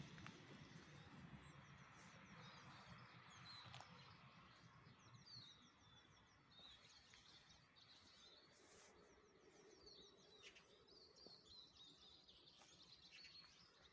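Near silence with faint birdsong: small birds chirping and giving short rapid trills.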